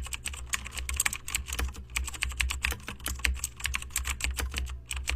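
Dense, irregular crackling and snapping of dry araucaria twigs (grimpa), with many sharp clicks a second over a low rumble of wind.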